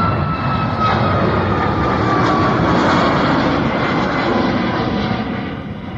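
Jet airliner's engines at takeoff power as it climbs past: a loud rushing roar with a high whine that slides slowly down in pitch, fading near the end.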